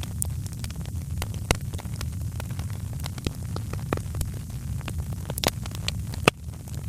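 Wood fire crackling in a fireplace: irregular sharp pops and snaps, one louder snap near the end, over a steady low rumble of the flames.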